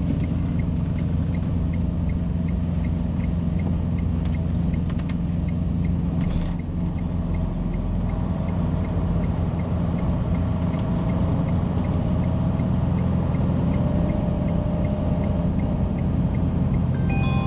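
Truck's diesel engine running inside the cab, with the turn-signal or hazard flasher ticking steadily at about two to three ticks a second. A short hiss about six seconds in, and a few short electronic tones near the end.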